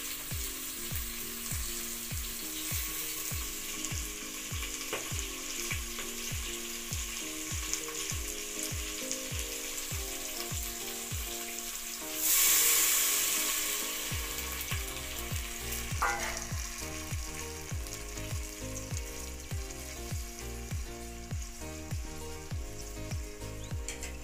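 Okra frying in a steel pot over a wood fire, sizzling steadily under background music with a steady beat. About twelve seconds in, the buttermilk kadhi mixture is poured into the hot pot and it gives a loud burst of hiss that fades over a couple of seconds.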